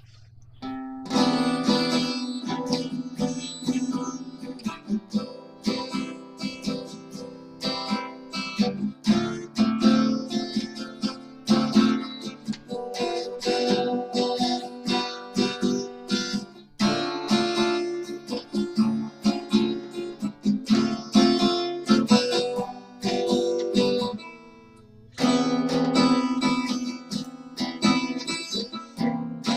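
Acoustic guitar strumming a slow chord sequence that includes a C major 9, stopping briefly near the end and then starting again. An open E string is left ringing on one chord where it should be muted.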